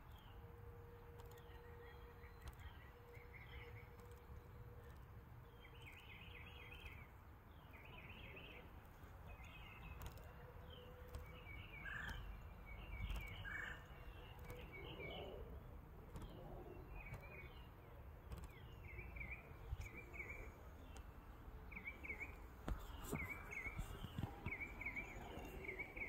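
Faint outdoor ambience: small birds chirping in short repeated phrases, more often in the second half, over a low steady rumble.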